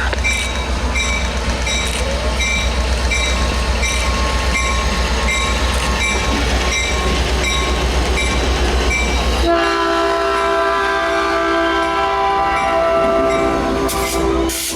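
Diesel locomotive running with a steady low rumble and a regular clicking, then about nine seconds in a multi-chime train horn sounds as one chord held for about five seconds before cutting off.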